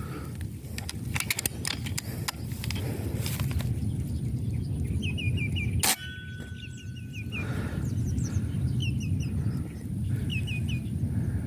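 A bird calling in quick series of three or four short, high, falling chirps, repeated several times from about the middle on, over a steady low rumble. Several clicks come in the first few seconds and one sharp click near the middle.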